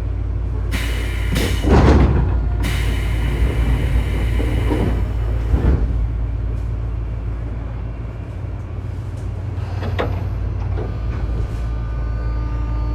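Tobu 9000-series train doors closing: a hiss of air and a thump about two seconds in, with the motor car's steady low hum underneath. Near the end the armature chopper begins to whine as the train starts off, several tones with one rising in pitch; this car's chopper is known for an abnormal sound.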